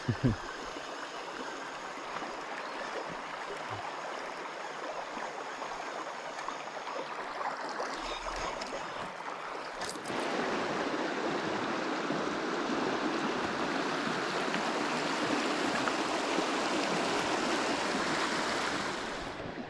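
Creek water running steadily over rocks, growing louder about halfway through.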